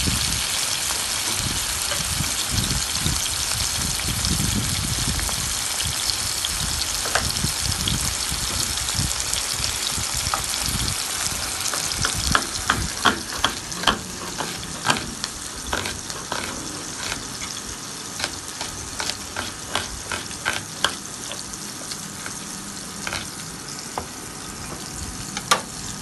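Thinly sliced marinated chicken breast sizzling in hot oil in a pan: a steady hiss that slowly grows quieter. From about halfway through come a run of sharp clicks and taps, a utensil against the pan.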